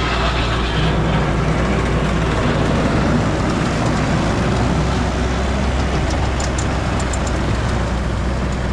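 Skid steer engine running steadily under load while it pushes snow, with the dense noise of the machine and moving snow throughout. A few faint ticks come near the end.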